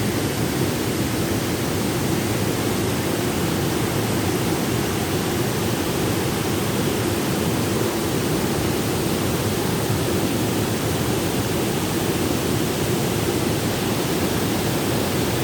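Waterfall cascade between lagoons, swollen by heavy rain, with a large volume of water pouring over it in a steady, continuous rush.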